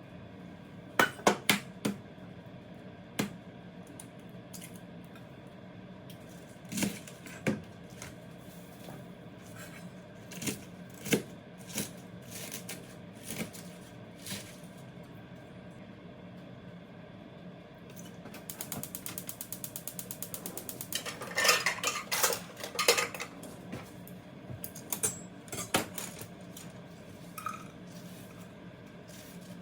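Kitchen prep sounds: utensils, dishes and containers clinking and knocking in scattered strokes, with a quick even mechanical ticking lasting a couple of seconds about two-thirds of the way through.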